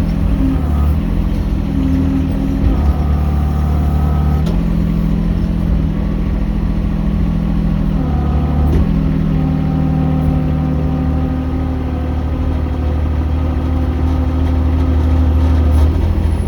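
Mini excavator's diesel engine running steadily while digging, its note shifting a few times, about four and eight seconds in, as the hydraulics take load.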